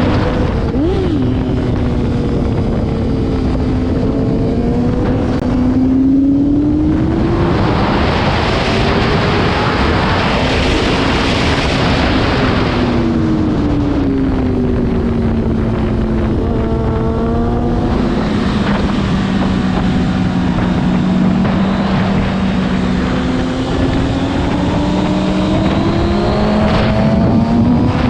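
Motorcycle engine running hard at speed, its pitch repeatedly climbing under acceleration and falling away under braking, with wind rushing over the microphone.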